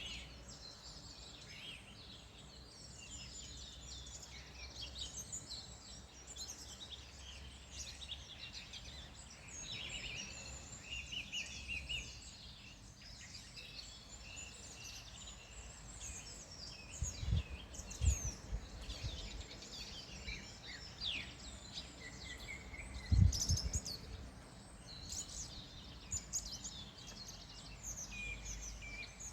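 Several wild birds chirping and singing, with many short calls and trills overlapping, over a low steady rumble. A few dull low thumps come through the middle, the loudest about 23 seconds in.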